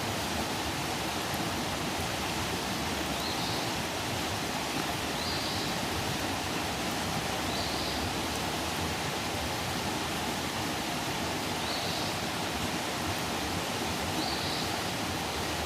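Outdoor campfire burning with a steady rushing hiss and a few faint crackles. A faint short high chirp repeats about every two seconds.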